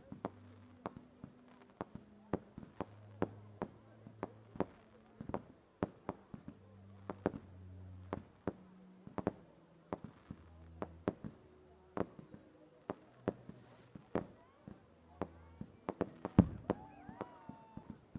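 Fireworks going off in a string of sharp cracks and bangs at uneven intervals, roughly two a second, with one louder bang near the end.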